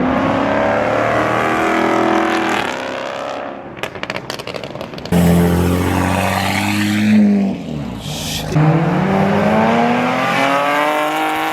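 Car engines revving hard, the pitch climbing and falling through several revs. Partway through, the engine sound breaks up into rough crackling for a second or so, then comes back suddenly and loud.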